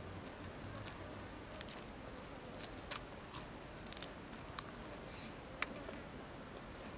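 A person chewing and crunching crisp raw leafy greens close to the microphone, with scattered short, sharp mouth clicks over a faint steady hiss.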